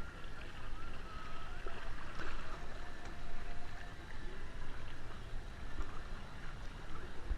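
Kayak paddles splashing and water sloshing against the hulls during kayak polo play, with faint distant voices calling.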